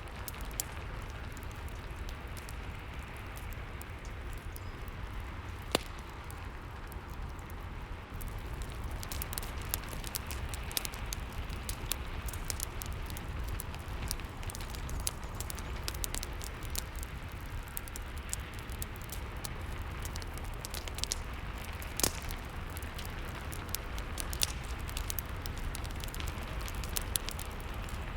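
Rain and fireplace ambience: steady rain hiss with a low rumble under a wood fire crackling, with a few louder pops. The crackling grows busier about a third of the way in.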